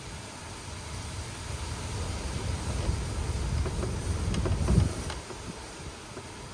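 Wind gusting against the microphone in a low rumble that builds to a strong gust near the end and then eases, with a few faint knocks during the gust.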